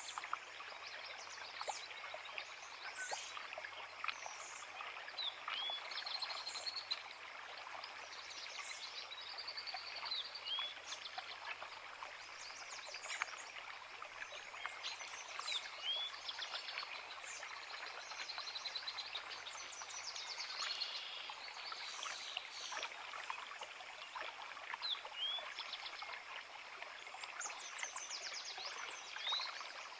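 A forest creek running steadily over rocks, with several birds singing over it: one gives a short hooked call every two or three seconds, others add quick trills and rising whistles.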